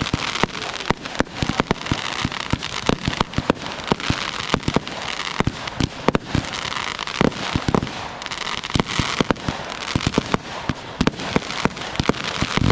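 Fireworks going off in rapid succession: many sharp bangs, with stretches of dense crackle about two seconds in and again around eight seconds.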